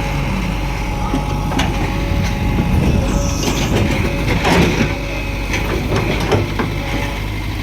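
Heavy vehicle's diesel engine running steadily, with scattered sharp knocks and clanks over it.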